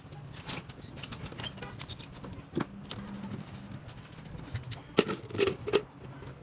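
Scattered metallic clinks and knocks of tools and parts being handled, the loudest a few knocks about five seconds in, over a steady low hum.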